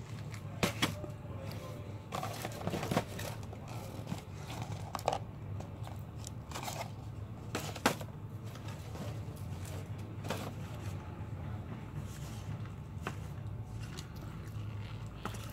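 Close-up chewing and crunching of crispy KFC fried chicken, with separate sharp crunches every second or two, over a steady low hum.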